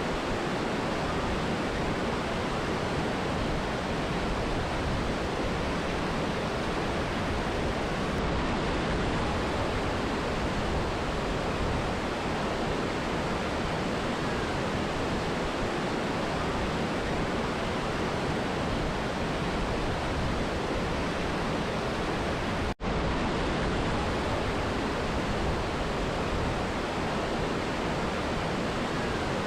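Steady rushing water of a mountain river and waterfall, an even unbroken noise. About two-thirds of the way through it cuts out for an instant and resumes at once, like an edit in a looped recording.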